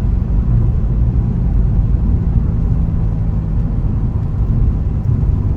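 2008 Nissan 350Z's V6 running through its Nismo exhaust, a steady low rumble.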